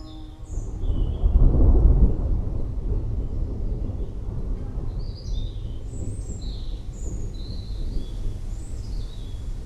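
Rolling thunder swells to its loudest about a second and a half in, then eases to a long low rumble. Birds chirp in short high calls over it, more often in the second half.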